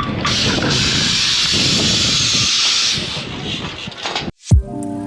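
A loud, steady hiss lasting about three seconds, then fading. Near the end the sound cuts out abruptly and music begins.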